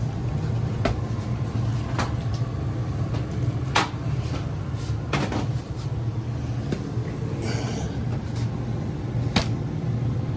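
Gas furnace running with a steady low hum, with several sharp clicks and knocks over it and a short rustle about seven and a half seconds in.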